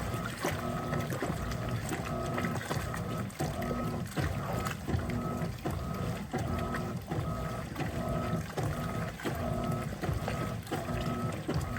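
Electrolux LTP15 top-load washing machine agitating a load of clothes in water. The agitator reverses about once a second, with the motor humming through each stroke and the water sloshing.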